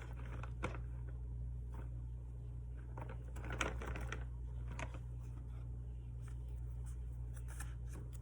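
Faint rustles and light taps of paper, stickers and tape being handled on a planner page, loudest in a brief cluster near the middle, over a steady low hum.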